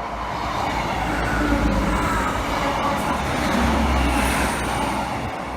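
A pair of coupled diesel multiple units, a Class 158 and a Class 156, rumbling past close by, the noise swelling through the middle and easing toward the end, with a few sharp clicks.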